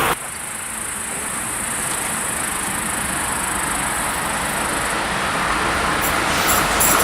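A train approaching along the line, its rumble growing steadily louder, with a steady high chirring over it that stops about six seconds in.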